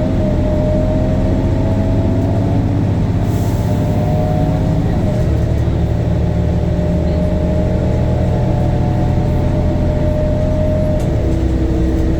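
Temsa Avenue LF city bus's DAF Euro 5 diesel engine pulling under acceleration, its pitch climbing steadily and then dropping as the ZF automatic gearbox shifts up, about five seconds in and again about eleven seconds in. A thin whine rises and falls with the engine.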